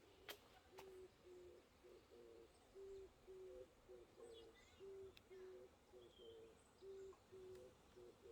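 Faint owl hooting: a steady, evenly paced series of short low hoots at two slightly different pitches, with a couple of faint clicks.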